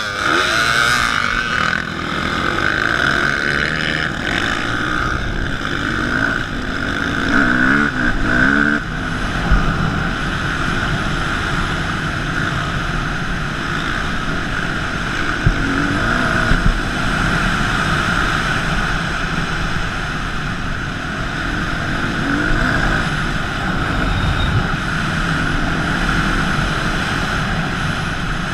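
Dirt bike engines running. The rider's own bike revs up and down through the gears during the first nine seconds as the group pulls away, then settles into a steady high drone at speed, with a constant rush of noise over it.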